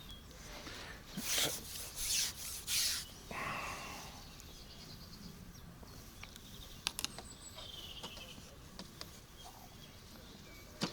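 Fishing pole and tackle being handled: three short rubbing swishes about a second in, a softer rasp after them, then a few light clicks later on.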